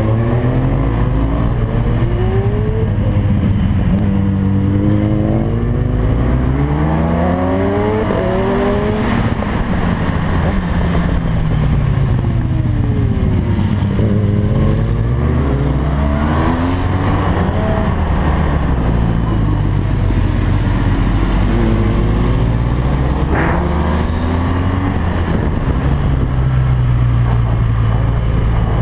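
BMW R1200GS LC's boxer-twin engine under hard acceleration on a race track, its pitch climbing repeatedly as it revs through the gears, dropping at each shift, and sliding down under braking several times, over a steady rush of noise.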